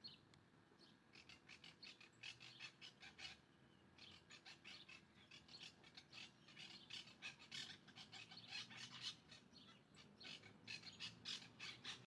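Small birds chirping in rapid runs of short, high notes, several a second, with brief pauses between runs.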